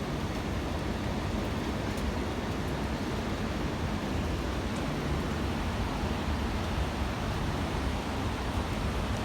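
Steady rushing ambient noise with a low rumble underneath, unchanging throughout.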